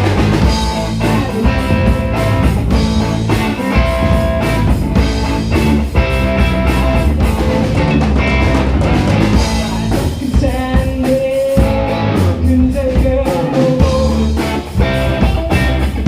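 Live band playing a funky rock number: guitar and drum kit over a steady beat, with a held note about ten seconds in.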